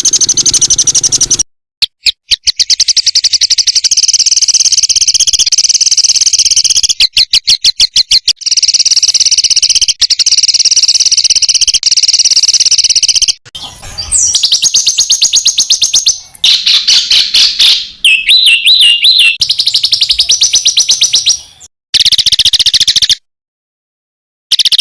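Songbird masteran recording: very rapid, dense, high-pitched trills and chattering 'tembakan' shots in loud blocks, cut together with abrupt stops and short silent gaps. About two-thirds of the way through comes a warbling phrase that rises and falls, and near the end the song breaks off for over a second before resuming.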